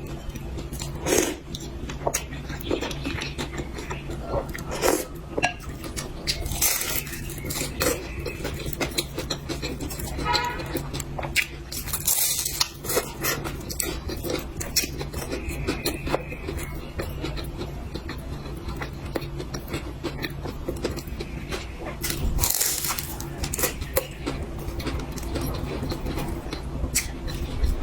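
Close-miked eating sounds: chewing and mouth noises with cutlery and dishes clinking now and then, over a steady low hum.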